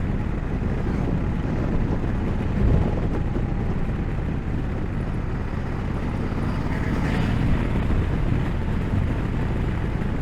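Honda Africa Twin DCT's parallel-twin engine running while the motorcycle is ridden, with wind rumbling on the action-camera microphone.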